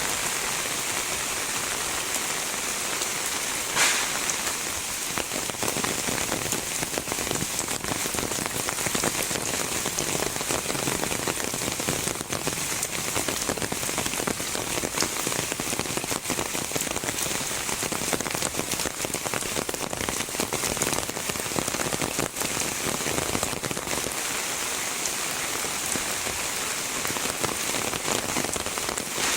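Heavy rain falling steadily, a dense even hiss of drops on surfaces, with one sharper knock about four seconds in.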